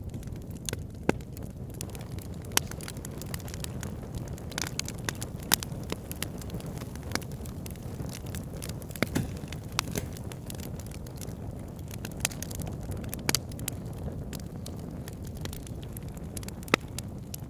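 Wood fire burning in a fireplace: a steady low rumble of flame with irregular sharp crackles and pops, a few louder snaps scattered through.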